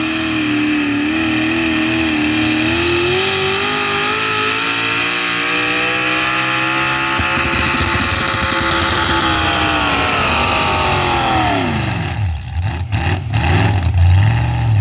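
Pulling truck's engine held at high revs under full throttle, its pitch climbing slowly. About eleven seconds in the revs fall away steeply, and the engine drops to a lower, uneven rumble.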